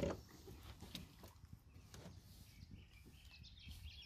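Near silence: faint outdoor ambience with a few faint bird chirps near the end.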